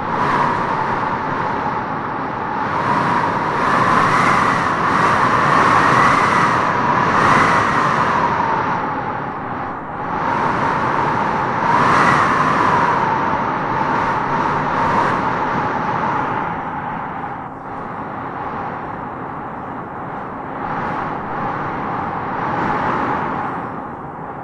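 Wind blowing in gusts, a steady rush with a howling whistle that rises in pitch as the gusts strengthen, most strongly a few seconds in and again about halfway through.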